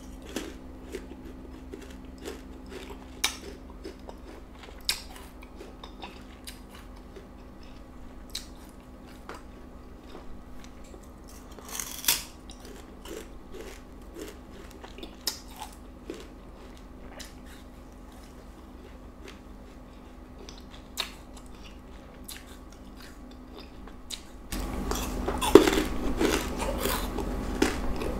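Close-miked biting and chewing of crunchy food: scattered sharp crunches and mouth clicks, then dense, louder crunching chewing near the end.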